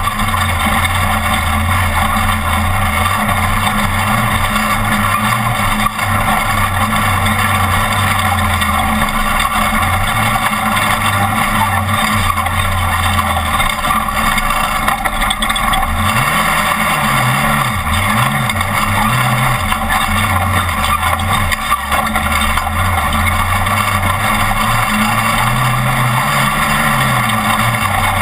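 Class 1450 off-road race truck's engine running hard at speed, its revs holding steady and then rising and falling several times in quick succession a little past the middle, and once more near the end.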